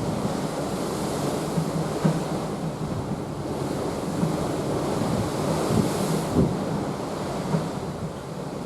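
Open sea rushing and splashing past a moving cruise ship, with wind buffeting the microphone. A louder hissing wash swells about four to six seconds in.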